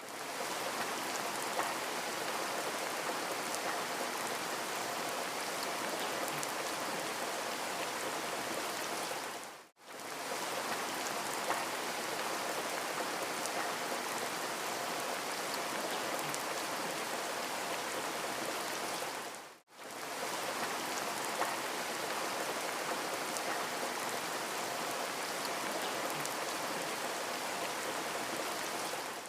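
Steady rain, an even hiss with scattered faint drop ticks. Twice it dips briefly to silence and comes back, as a short rain recording of about ten seconds fades out and restarts on a loop.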